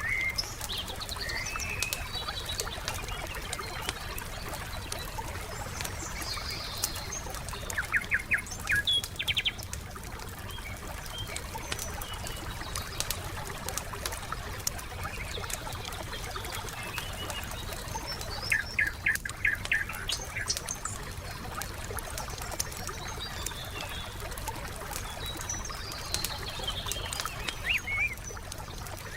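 Campfire crackling with scattered sharp pops over a low steady rumble, while forest birds chirp and whistle. Twice, a bird gives a short, fast run of repeated notes, the loudest sounds here.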